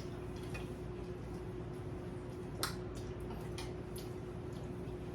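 Light clicks and taps of eating at the table, utensils and mouth sounds, a sharper click about two and a half seconds in, over a steady low hum.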